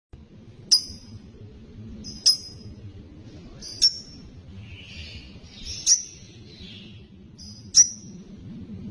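Lovebird giving single sharp, high chirps, five in all, spaced about one every one and a half to two seconds, with softer scratchy chatter in the middle, over a low steady hum.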